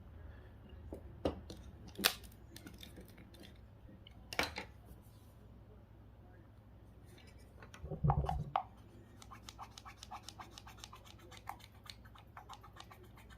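A plastic GPS unit's casing handled and felt over on a work surface: scattered sharp clicks and scratching, a heavier thump about eight seconds in, then a run of small quick ticks as fingers work along the case looking for screws.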